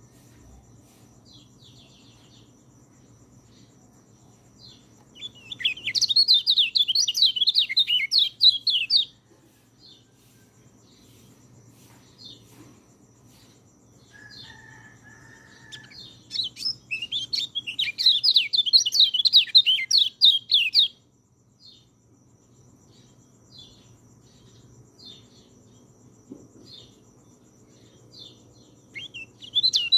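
Orange-headed thrush singing: two long, rapid, warbling song phrases about ten seconds apart, with scattered soft short call notes in between, and a third phrase beginning at the very end.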